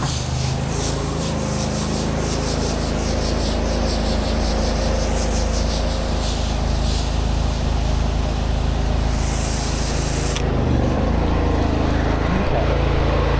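Pressure washer engine running steadily while a high-pressure water jet hisses against the concrete driveway; the spray cuts off abruptly about ten seconds in and the engine keeps running.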